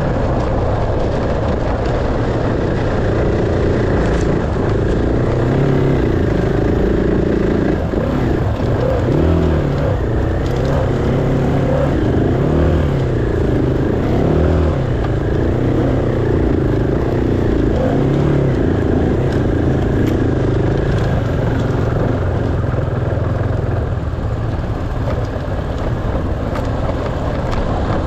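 Dirt bike engine running under load, revving up and down again and again as the throttle is worked, with the quickest swings through the middle stretch.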